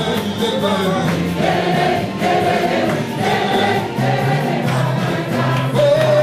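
Gospel worship song sung by a choir, with a band accompanying: steady bass notes and a light drum beat under the voices.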